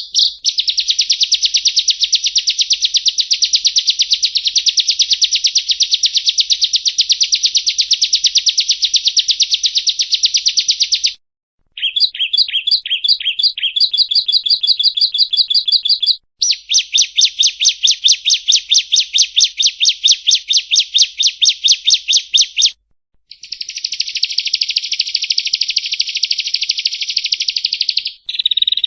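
Prenjak rowo (yellow-bellied prinia) song: long runs of rapid, evenly repeated high chirping notes, stopping briefly three times and changing pattern once between runs.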